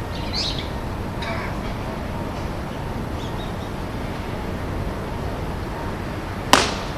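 One sharp crack of a baseball impact about six and a half seconds in, over steady background noise.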